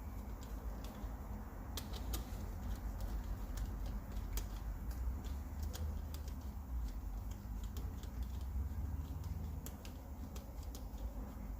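Scattered light metallic clicks and taps of hand tools on the bolts of a cylinder head's rocker arm assembly as it is being bolted down, over a steady low hum.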